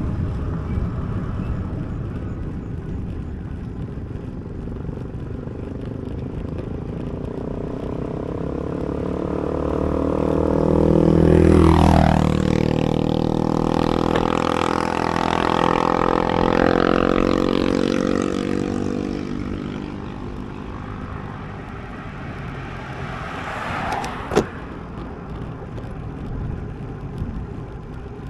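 A motor vehicle overtakes on the road. Its engine grows louder to a peak about twelve seconds in, drops in pitch as it goes by, and fades away over the next several seconds. Wind rumbles on the ride camera's microphone throughout, and there is a single sharp click near the end.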